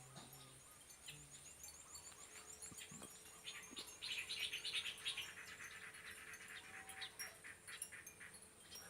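High-pitched chirping from small animals, birds or insects: quick repeated chirps, then a dense rapid trill that is loudest about four to five seconds in.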